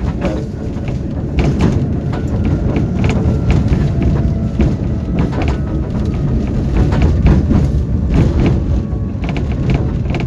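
Tram running between stops, heard from inside the passenger car: a loud, steady low rumble of wheels on the rails, with frequent clicks and rattles.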